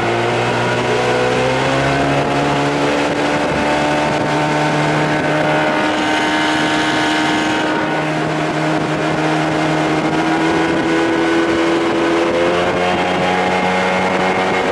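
Evinrude 25–30 hp two-stroke outboard motor running near full throttle, its pitch climbing over the first eight seconds or so, then holding steady, with a slight further rise near the end.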